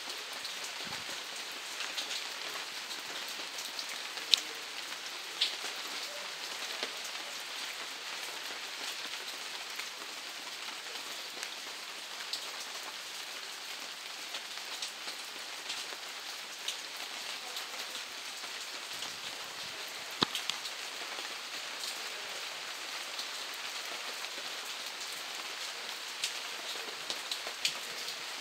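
Steady rain falling, an even hiss with individual drops ticking sharply close by; a few louder drop hits stand out about 4, 5 and 20 seconds in.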